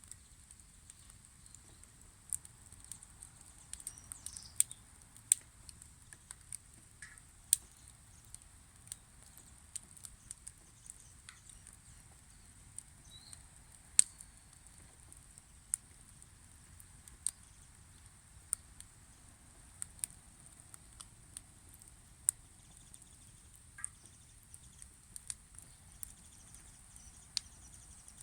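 Wood fire crackling, with sharp irregular pops from the burning wood every second or so; the loudest pop comes about halfway through.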